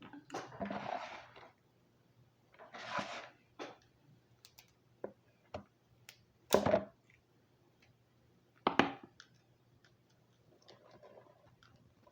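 Close-up eating noises as a lobster's shell is cracked and picked apart by hand. There are scattered clicks and snaps, two noisy stretches of slurping and chewing in the first few seconds, and two sharp cracks of shell about six and a half and nine seconds in.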